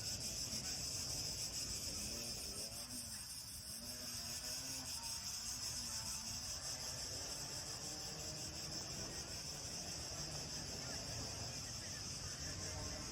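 Crickets chirring in a steady, high-pitched chorus, over a low hum of distant city noise.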